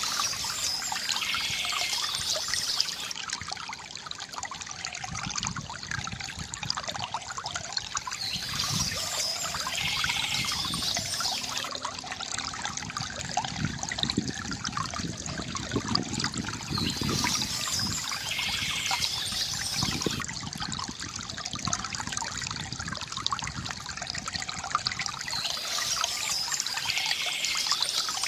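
Water trickling and gurgling steadily from a bamboo fountain, with a brief higher sound recurring about every eight seconds.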